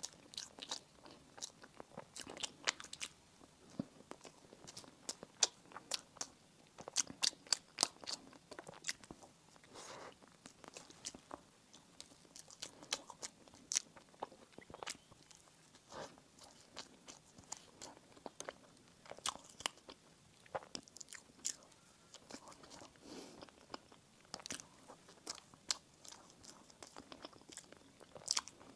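Close-miked eating sounds of someone biting into and chewing bakery bread and pastry: a steady run of crisp crunching clicks with softer chewing between, busiest about six to nine seconds in.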